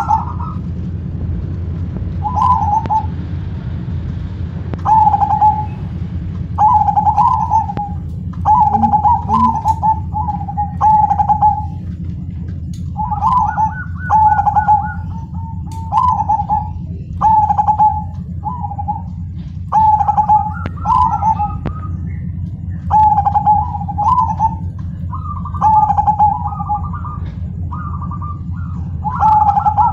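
Zebra dove (perkutut) cooing its song over and over, short phrases of quick coos near one pitch, each phrase about a second long with brief gaps between them. A steady low hum runs underneath.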